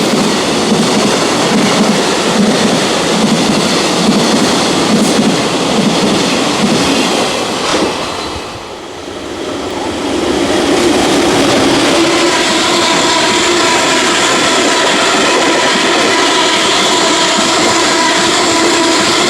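Freight train passing, its wagons' wheels rolling over the rails with a regular beat. The noise dips about eight seconds in, then a steady sound with several held tones takes over.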